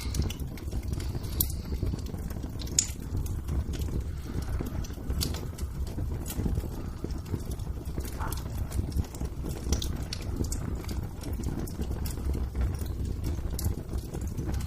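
Wood fire in a fireplace crackling: scattered sharp pops over a steady low rumble.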